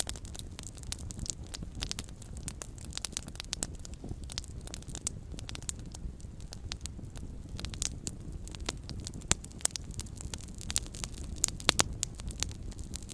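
Small campfire crackling: a dense, irregular run of sharp pops and snaps over a low, steady rumble, with a few louder pops a little before the end.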